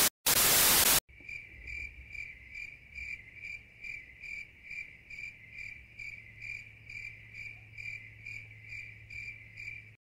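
A loud burst of TV static for about a second, broken by a brief gap, then crickets chirping in a steady, even rhythm of a little over two chirps a second over a faint low hum.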